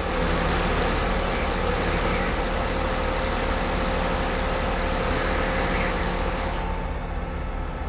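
Log delivery lorry's diesel engine running under load, with a steady whine and rushing noise that drops about six and a half seconds in, leaving a lower steady hum.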